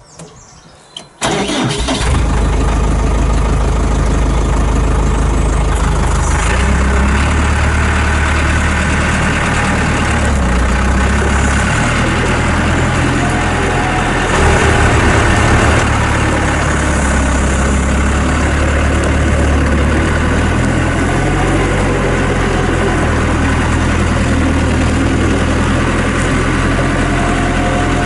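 Diesel engine of a JCB 85Z-1 8-tonne excavator cutting in suddenly about a second in, then running steadily with its note shifting a little as it works.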